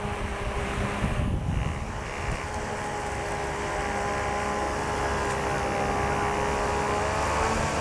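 Homemade rechargeable table fan running: a high-speed DC motor spinning the fan blade with a steady whirring hum over a low rush of air, its pitch edging up slightly near the end.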